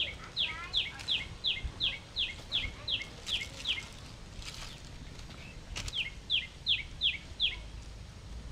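A bird calling a rapid series of short, high notes that each drop sharply in pitch, about three a second. The run breaks off about four seconds in and starts again with five more notes around six seconds.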